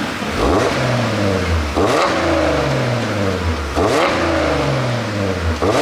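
2015 Audi A8L 50 TFSI's engine revved in four quick throttle blips, each rising sharply and then falling back to idle. The car has an ECU tune for exhaust pops and crackles on the overrun.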